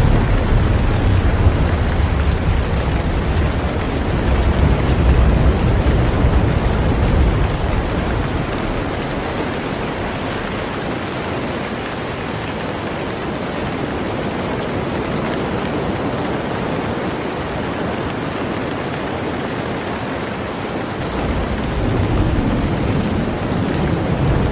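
Heavy rain falling on a boat, a steady hiss. A low rumble sits under it for the first third, fades out, and returns near the end.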